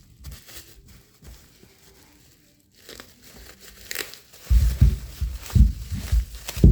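Packaging being torn and crumpled as a new-old-stock wiper motor is unwrapped, faint at first and then louder rustling with heavy handling bumps in the last two seconds.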